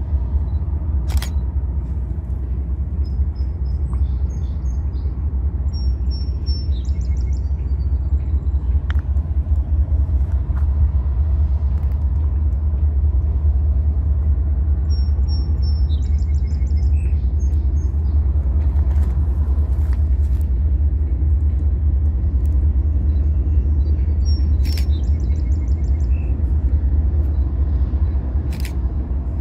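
A steady low rumble throughout, with a songbird singing a short chirped and trilled phrase three times, several seconds apart, and a few sharp clicks.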